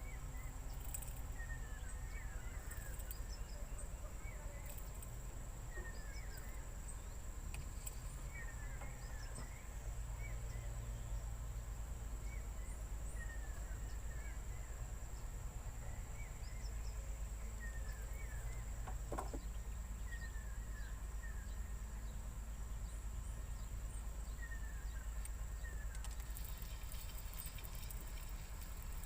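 Riverside insects droning with one steady high-pitched tone, and a bird giving clusters of short falling chirps every few seconds over a low rumble. A single sharp click about two-thirds of the way through.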